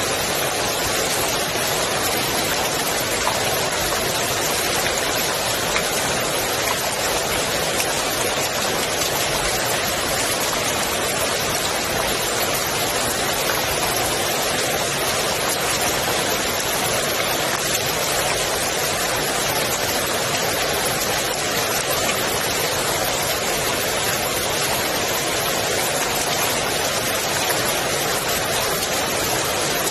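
Steady rain falling on the water of a swimming pool, an even, unbroken wash of drops with no let-up.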